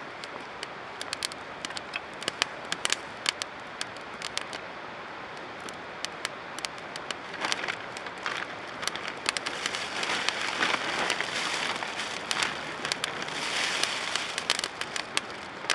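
Open wood campfire crackling with many sharp pops. About halfway through, a rushing hiss of flame swells up as the fire takes hold.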